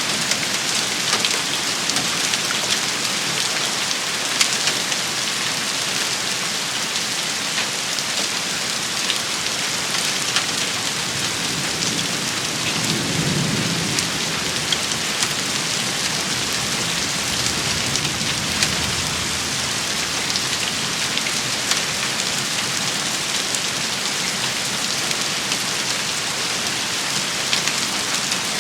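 Heavy rain shower falling steadily, a dense hiss full of fine pattering drop impacts, with a low rumble of distant thunder swelling about halfway through.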